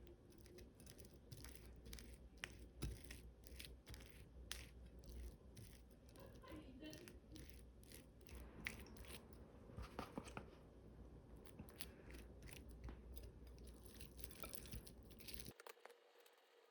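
Faint, irregular clicks and light rustling over a low hum, the sound of small objects being handled. The hum cuts off suddenly near the end.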